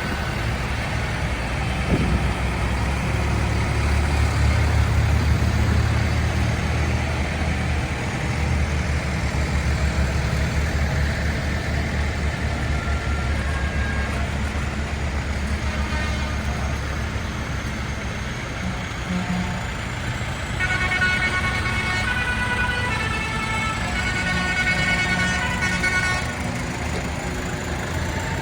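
Tractor engines going by with a heavy low rumble, strongest in the first half. Later, a vehicle horn toots in several short blasts.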